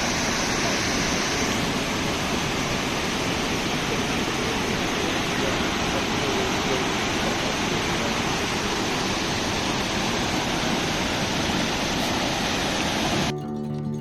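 Steady rushing roar of a waterfall on a river. Near the end the water sound cuts out and acoustic guitar music begins.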